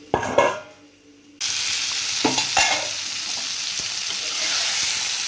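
Potato and pointed gourd (potol) pieces frying in oil in a pan, a steady sizzle with a spatula stirring and scraping against the pan. The sizzle starts suddenly about a second and a half in, after a brief loud sound near the start.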